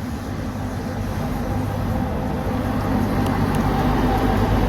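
Heavy truck engine running with a steady low hum, growing gradually louder as the truck approaches.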